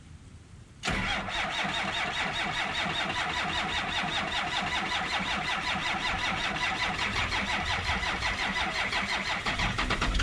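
A 12-valve Cummins 6BT diesel cranking on the starter in 7-degree cold, with no glow plugs, grid heater or block heater: an even, rhythmic chugging that starts about a second in and runs for about nine seconds without the engine catching, then stops near the end.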